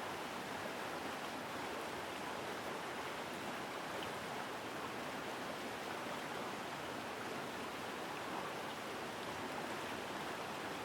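Mountain stream rushing over rocks: a steady, strong flow of water.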